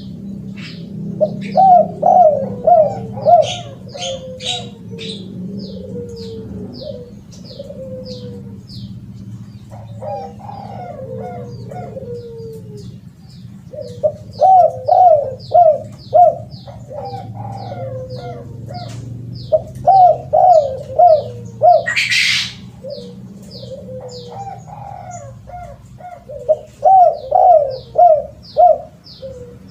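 Spotted dove (terkukur) cooing in repeated phrases, each a quick run of loud coos, with softer coos between them. A small bird chirps steadily and high-pitched throughout, and a short hiss sounds about 22 seconds in.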